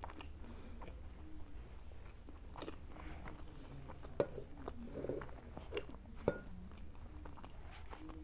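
Close-miked eating sounds: chewing and wet mouth clicks of someone eating sarson ka saag (cooked mustard greens) by hand, with two sharper clicks about four and six seconds in.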